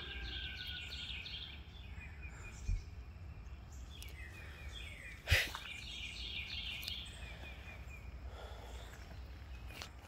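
A bird singing quick runs of high, repeated chirps, once near the start and again for a few seconds midway, over a steady low rumble. A sharp knock sounds about five seconds in.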